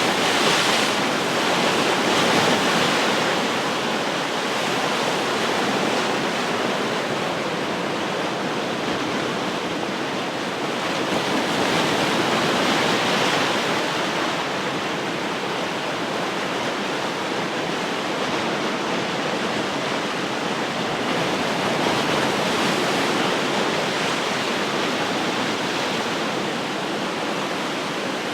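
Ocean surf: a steady wash of breaking waves, swelling a little as waves break about two seconds in and again about twelve seconds in.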